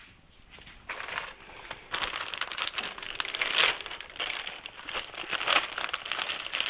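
Irregular crinkling and rustling of something being handled, in uneven bursts that start about a second in.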